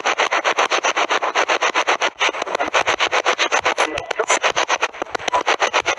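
Spirit box sweeping through radio frequencies: rapid, evenly chopped bursts of static, about eight or nine a second.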